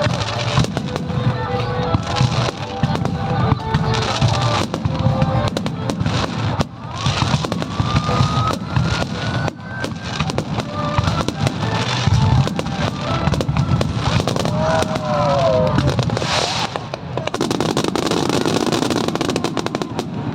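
Fireworks bursting in quick succession, a dense run of bangs and crackles, with music playing underneath.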